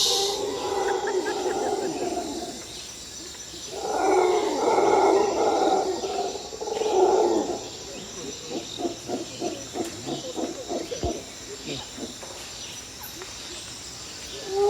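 Scale RC crawler truck's electric motor and gear drivetrain whining in throttle surges, then a run of short quick throttle blips, about four or five a second.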